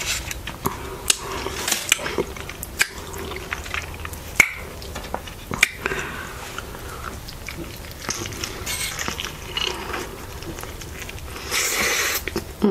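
Close-up chewing and wet mouth sounds from eating a loaded burrito, with scattered sharp clicks, and a louder burst near the end as she bites into the burrito.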